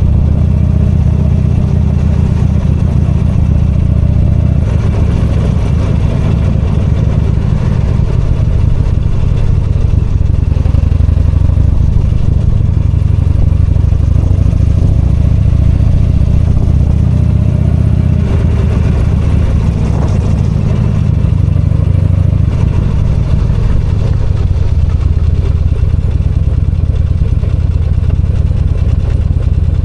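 V-twin motorcycle engine running steadily as the bike is ridden, heard from the rider's position, with road and wind noise over it.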